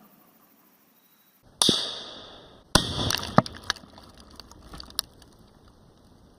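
Rifle fire and Tannerite exploding-target blasts: a loud bang about a second and a half in with a long fading tail, a second sharp bang about a second later, then a string of smaller cracks that thin out.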